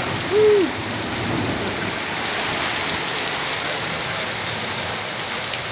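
Heavy rain pouring steadily, with fine patter of drops hitting surfaces. About half a second in, a short pitched sound rises and falls once, louder than the rain.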